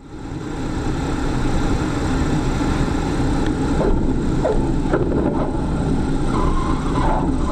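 Steady vehicle noise: an engine running with a loud rushing of wind or road, a deep rumble under it, and a few short squeaky pitch glides in the middle.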